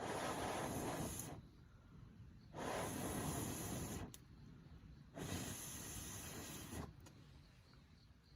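Three long hissing rushes of air, each a little over a second long, evenly spaced about two and a half seconds apart, each starting and stopping sharply.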